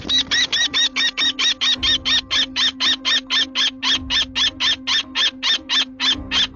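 A bird of prey giving a fast run of short, harsh repeated calls, about five a second.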